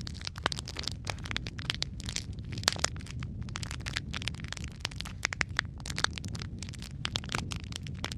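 Wood fire crackling in a fireplace: dense, irregular snaps and pops over a steady low rumble of burning, with a few louder pops.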